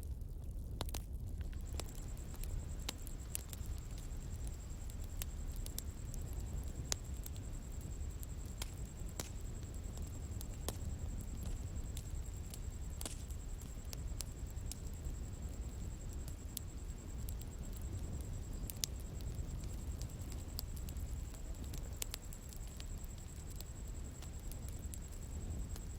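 Wood campfire burning with a steady low rumble and scattered sharp crackles and pops. A steady high, thin insect trill, like crickets, comes in about a second and a half in.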